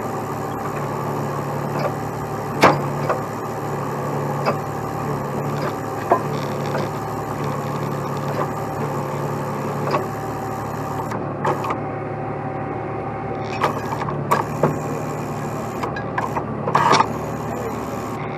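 Heavy truck engine idling steadily, with a few sharp metallic knocks and clanks, the loudest a few seconds in and a small cluster near the end.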